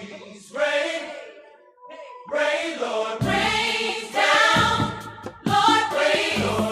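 Gospel choir singing a song with accompaniment; after a brief lull, a low bass line comes in about three seconds in.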